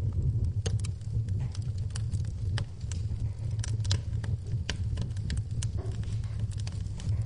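Wood fire burning in a fireplace, crackling and popping in irregular sharp clicks over a steady low rumble of the flames.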